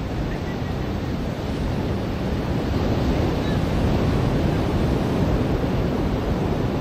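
Ocean surf washing onto a beach: a steady rush of breaking waves that swells a little about two and a half seconds in.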